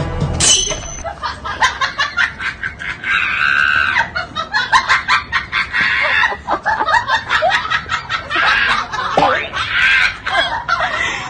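Laughter in repeated short bursts, with snickering and chuckling.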